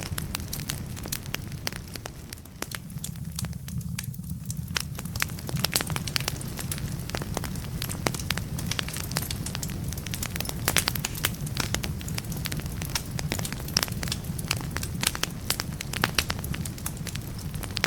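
Wood fire burning in a fireplace, crackling with frequent sharp pops over a steady low rumble; the crackling thins out briefly a few seconds in.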